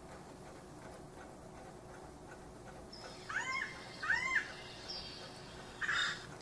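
Bird recording played back from a field-guide app through a device speaker. After about three seconds of quiet come two arched calls that rise then fall, a little under a second apart, followed by a few thin high notes and a short rough burst near the end.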